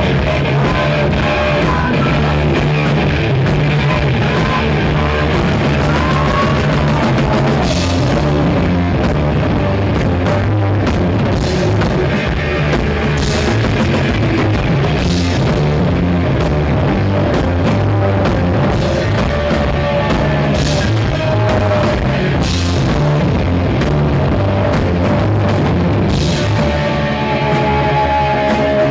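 Rock band playing live and loud: a driving drum kit with crashing cymbals under distorted electric guitar.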